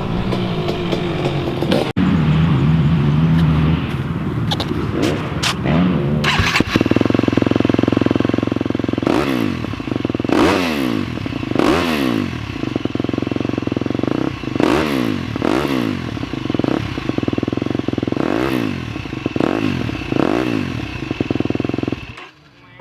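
2018 KTM 250 SX-F's single-cylinder four-stroke engine running through a new FMF 4.1 exhaust: it settles into a steady idle, then is revved in a series of quick throttle blips, each rising and falling in pitch, before shutting off sharply near the end.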